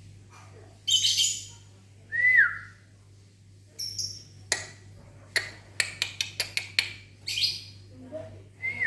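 Lovebirds answering a person's whistle with shrill, harsh calls and a quick run of sharp chirps. The whistled note slides up and then drops, about two seconds in and again at the end.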